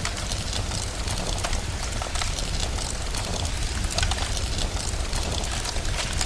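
Steady rain mixed with a crackling fire: an even hiss with frequent sharp pops and crackles, over a constant deep rumble.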